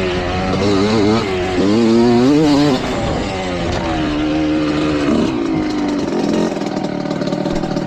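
Kawasaki KX125 two-stroke single-cylinder dirt bike engine revving, its pitch rising and falling with the throttle over the first few seconds. About five seconds in it drops to a lower, uneven, pulsing idle.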